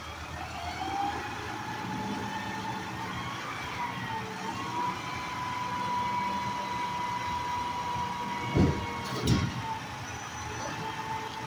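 Garbage truck running, its hydraulics whining: the pitch climbs and then holds steady for several seconds over the engine rumble. Two loud bangs come close together near the end.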